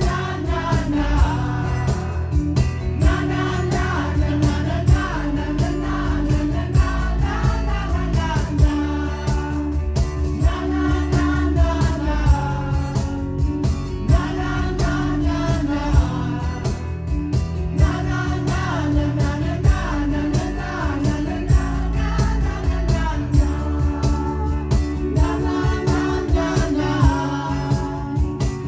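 Live acoustic rock band playing a song: acoustic guitars strummed in a steady rhythm under a lead voice singing.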